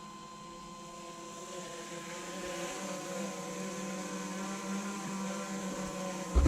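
Quadcopter drone's propellers humming with a steady pitch, growing gradually louder.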